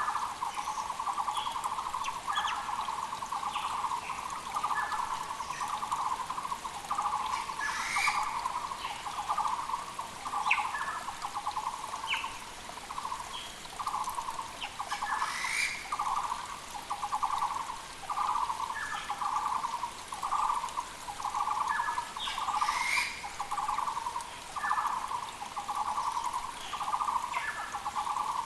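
Taiwan barbet calling, an unbroken run of throbbing notes about one a second, with other small birds chirping higher over it. Three times a sharp high sweeping call cuts through.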